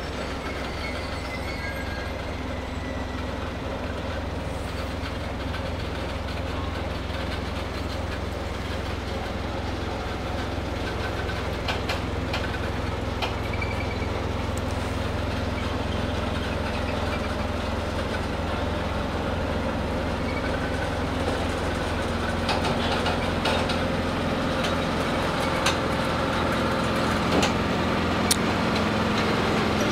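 Freight train hauled by the S200 diesel locomotive creeping under a viaduct at walking pace: a steady low diesel engine drone with occasional faint knocks from the wagons, slowly growing louder.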